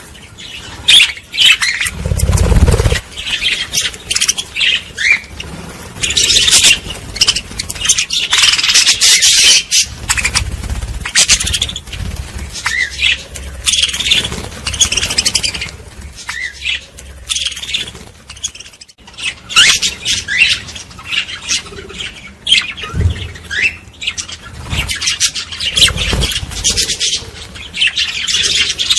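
A flock of small birds chirping and squawking without pause, many calls overlapping, with short up-and-down whistled notes. A few brief low rumbles come and go beneath them.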